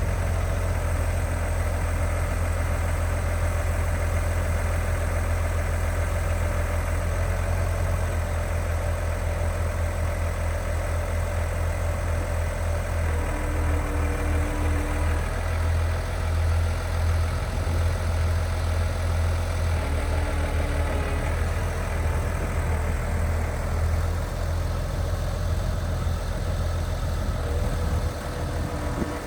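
Case IH Maxxum 140 tractor's diesel engine idling steadily.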